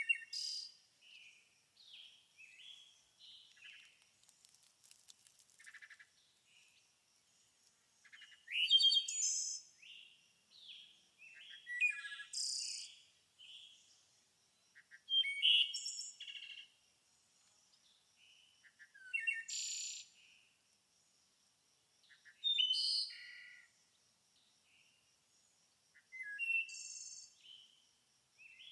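Songbirds singing and calling: bright chirping phrases with quick pitch slides that recur every few seconds, louder from about a third of the way in. A faint, steady, high-pitched pulsing buzz runs beneath them.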